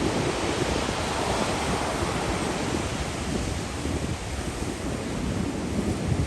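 Wind buffeting the microphone: a steady rushing noise with a rapidly fluttering low rumble.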